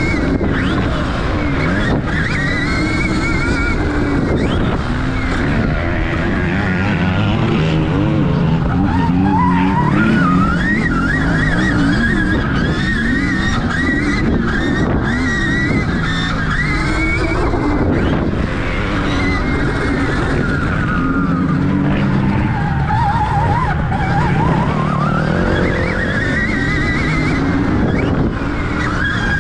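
Stark Varg electric motocross bike's motor whining, its pitch rising and falling with throttle and speed, dropping twice and climbing back, over a constant rushing noise of the ride.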